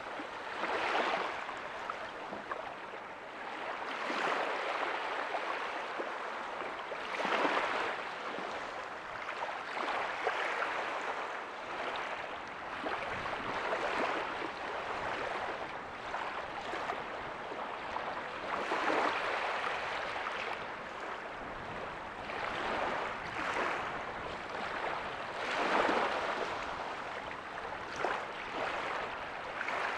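Small ocean waves breaking and washing up a beach, a steady hiss of surf that swells every two to four seconds.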